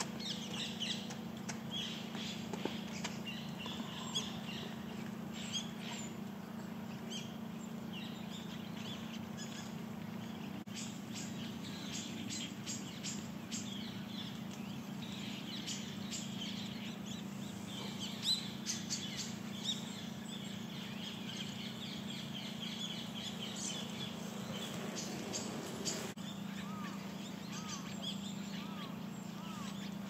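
Many short chirps and calls from a mixed flock of small birds, scattered throughout, over a steady low hum.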